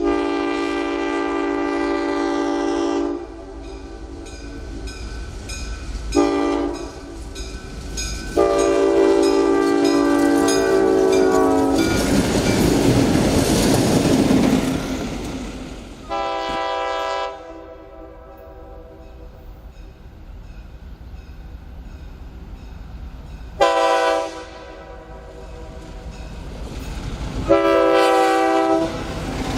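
A six-axle MLW diesel locomotive's multi-note air horn sounds a series of long and short blasts. Between the blasts the train passes close by with a swelling, then fading rumble of engine and wheels on rail.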